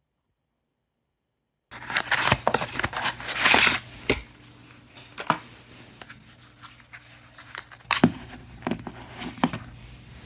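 After a silent opening, packaging is handled and opened: plastic or paper tearing and crinkling for a second or two, then scattered clicks and taps as items are moved about.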